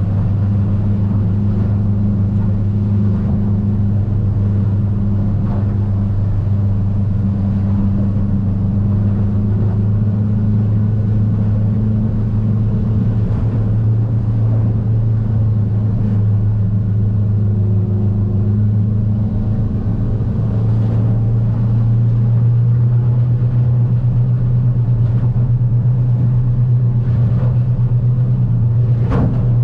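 Outboard engine of a small aluminum boat running steadily under way with a low drone, rising slightly in pitch and loudness about two-thirds of the way through. A few short knocks come near the end.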